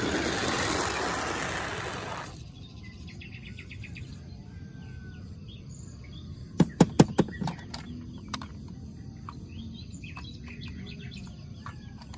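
Birds chirping in the background. A loud rushing noise fills the first two seconds, and a quick run of about five sharp clicks comes about seven seconds in.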